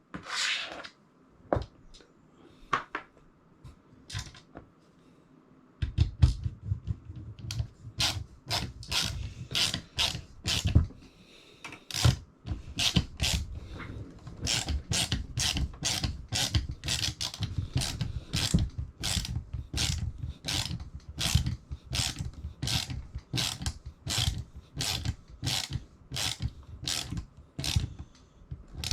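Ratchet wrench worked back and forth to tighten bolts, its pawl clicking in a quick, even rhythm of about two strokes a second. A few scattered clicks and knocks come before the ratcheting starts, about six seconds in.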